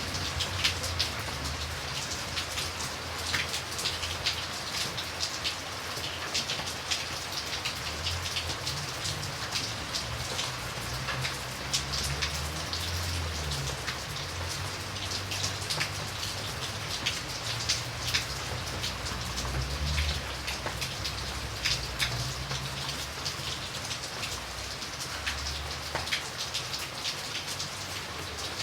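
Steady rain falling, with many individual drops ticking on a surface over a constant hiss. A low rumble underneath swells and fades every few seconds.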